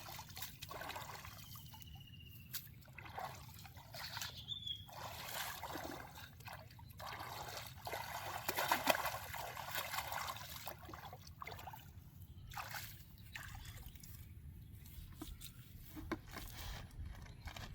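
Water trickling and sloshing in irregular spells, with a few small splashes.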